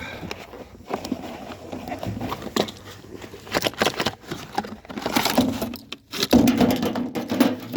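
Hands rummaging through plumbing parts: metal valves and fittings clinking and knocking in a string of short, irregular knocks and rattles.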